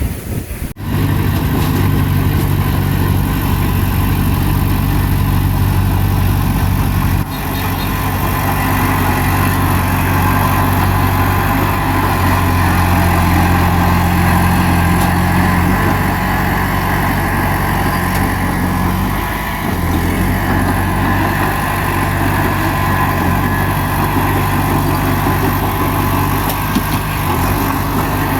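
Bulldozer's heavy diesel engine running at a steady speed, with short breaks just under a second in and about seven seconds in.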